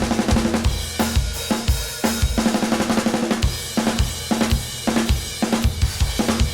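Drum kit being played in a busy groove: an SJC Custom Drums Alpha aluminum 6.5x14 snare with a Remo Powerstroke 3 head, with a dry, cutting crack, over bass drum, hi-hats and cymbals. The playing stops with a final hit at the very end, and the cymbals ring on.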